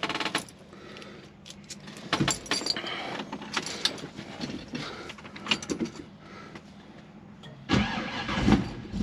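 Car keys jangling with a scatter of clicks and knocks as the car is readied for a cold start. Near the end comes a louder, deeper stretch of about a second and a half.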